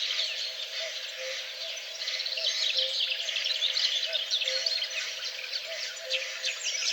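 A chorus of many birds singing, with dense overlapping chirps and trills. Underneath, a soft low note repeats at an even pace, about once a second.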